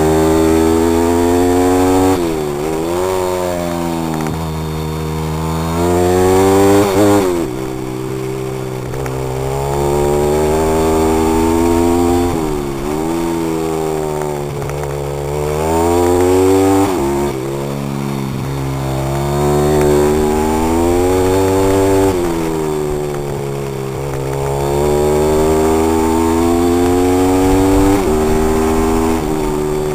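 Pit bike's small single-cylinder four-stroke engine being ridden hard, its pitch climbing and falling again and again as the throttle is opened and closed, with several sharp drops in revs.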